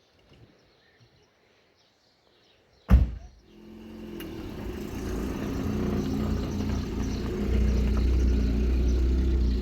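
A sharp thump about three seconds in, then a motor vehicle's engine running with a low rumble that builds over a few seconds and then holds steady.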